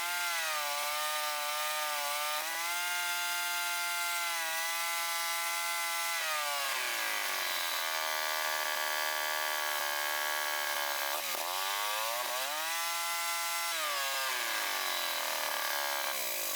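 MTD 8 hp chipper shredder's single-cylinder engine running with its cutting assembly spinning. Its speed holds steady, drops off about seven seconds in, then rises and falls a few times as the throttle is worked. The big cutter flywheel makes it slow to rev up, and the carburettor, freshly cleaned and adjusted, is running it a little rich.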